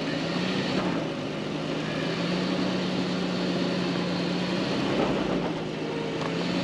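Vehicle engine idling with a steady hum.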